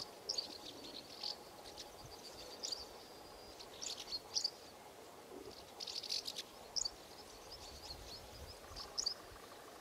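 Small birds chirping faintly, short high calls at irregular intervals over quiet outdoor background hiss.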